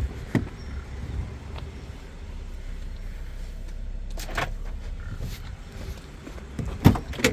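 Handling noises on a car: a few clicks, a sharp knock about four seconds in and a louder thump near the end, with a low rumble underneath, consistent with a car door being opened and shut to get at the rear seat.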